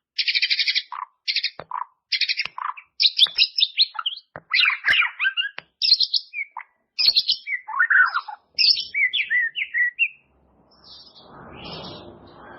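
White-rumped shama singing a fast, varied song of buzzy high trills and quick whistled phrases, several of them falling in pitch. The song stops briefly near the end while a faint background hiss rises.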